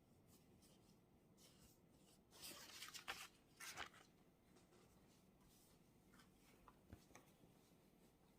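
Faint desk sounds of someone studying: a short burst of paper rustling about two and a half seconds in, another just before four seconds, then a few light taps and clicks.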